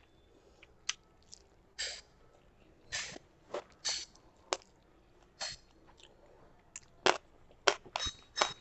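Close-miked mouth sounds of a person eating rice and curry by hand: wet chewing with sharp, irregular lip smacks and clicks, coming more often and louder near the end.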